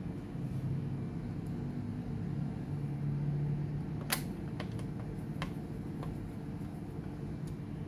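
Steady low hum with a few light clicks and taps from handling small hard parts; the loudest, a single sharp click, comes about four seconds in, followed by a few fainter ones.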